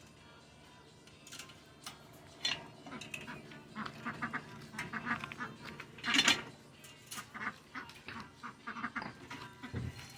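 Ducks quacking in many short calls, with the loudest call about six seconds in.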